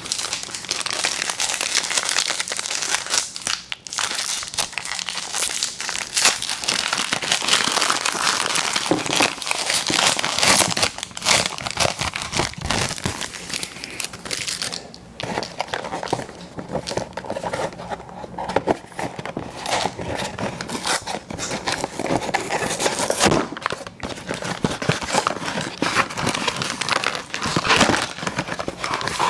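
Close-miked crinkling and rustling of plastic candy packaging, a dense run of fine crackles, with a tearing sound here and there.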